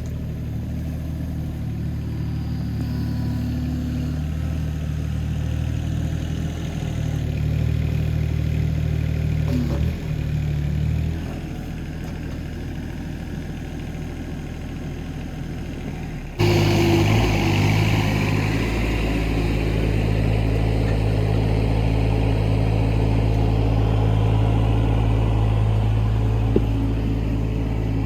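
Hitachi ZX18 mini excavator's diesel engine running steadily while digging. About sixteen seconds in it suddenly gets louder and harsher and stays that way.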